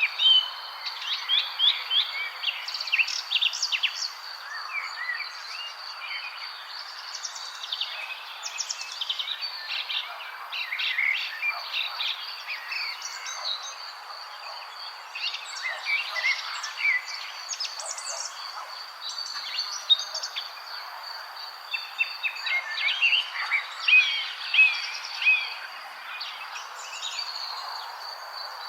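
Many small birds chirping and trilling at once, quick overlapping calls throughout, over a steady high insect drone and a background hiss.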